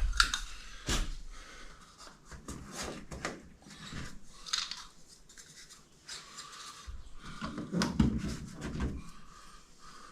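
Scattered small clicks, scrapes and rubbing, with a few dull knocks near the start and about eight seconds in: hand work fitting a pickup's cab marker lights and plugging in their bulb connectors.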